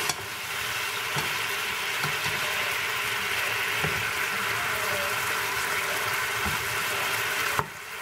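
Chicken and carrots sizzling in soy sauce in a nonstick frying pan as they are stir-fried with a wooden spatula, with an occasional light knock or scrape of the spatula; the carrots are finishing cooking. The steady sizzle drops off abruptly near the end.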